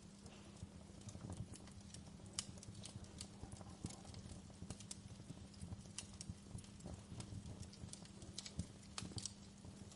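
Wood campfire crackling: irregular sharp pops and snaps over a low, steady rumble of the burning fire.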